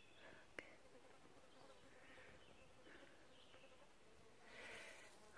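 Near silence with the faint, steady buzz of a flying insect around a dung pile, and a single light click about half a second in.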